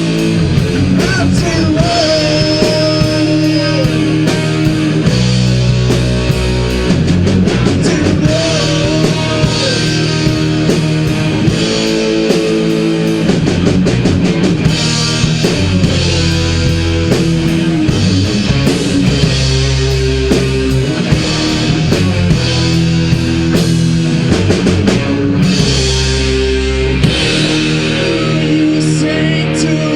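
Heavy metal band playing: distorted electric guitars, bass and a drum kit at a steady, driving beat, with singing over it.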